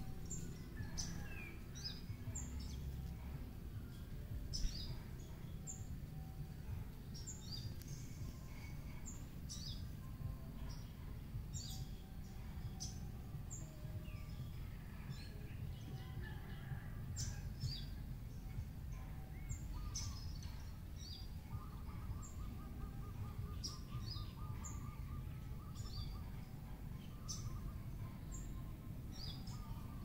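Wild birds chirping and calling, with many short high chirps scattered throughout and a quick trill of repeated notes about two-thirds of the way through, over a steady low rumble.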